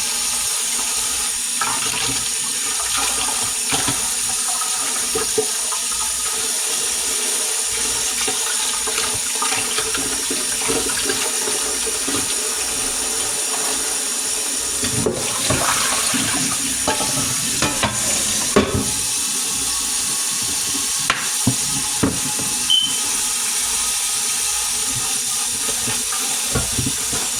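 Kitchen tap running steadily into the sink while a pot is washed, with occasional clinks and knocks of the pot and dishes.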